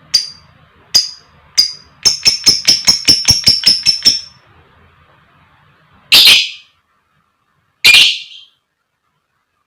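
Lovebird calling: three sharp single chirps, then a fast run of about a dozen chirps over two seconds. Two harsher, noisier half-second screeches follow, a couple of seconds apart.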